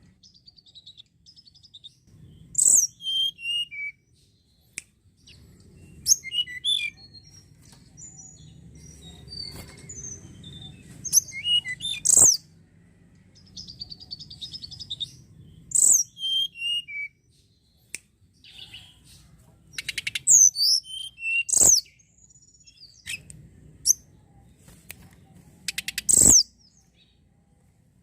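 Tledekan gunung songbird singing: short phrases every few seconds of high, sharp whistled notes sliding downward, with softer quick trills between them.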